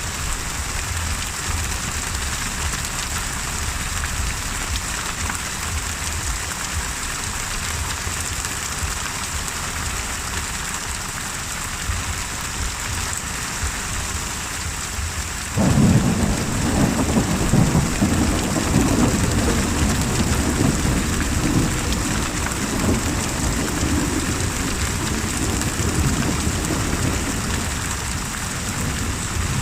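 Steady heavy rain, with a thunderclap breaking in suddenly about halfway through and rumbling on for several seconds as it slowly fades.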